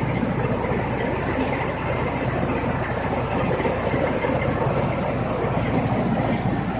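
Tractor-driven mini rice mill running: the tractor engine and the paddy huller it powers make a loud, steady mechanical noise.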